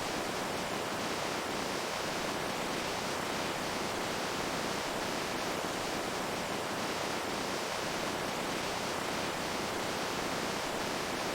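Steady rush of running water, an even hiss with faint little splashes through it.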